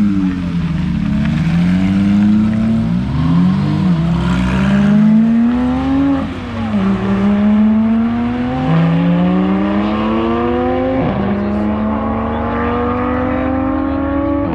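Sports car engines accelerating away, two or more at once. Their pitch climbs steadily and drops sharply at gear changes, about halfway through and again near the end.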